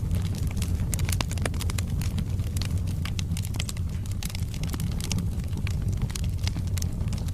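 Wood fire burning in a fireplace: logs crackling with frequent irregular sharp pops and snaps over a steady low rumble of the flames.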